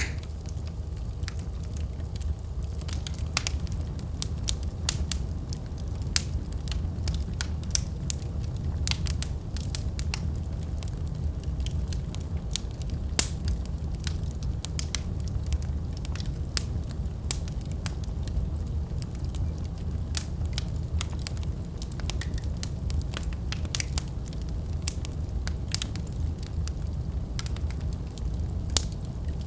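Wood fire burning in a fireplace: a steady low rumble of flames with irregular sharp crackles and pops, a louder pop about 13 seconds in.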